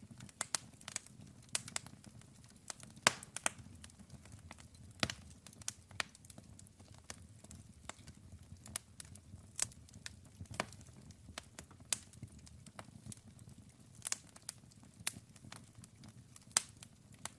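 Wood fire burning, with irregular sharp crackles and pops several times a second over a low steady rumble of flame.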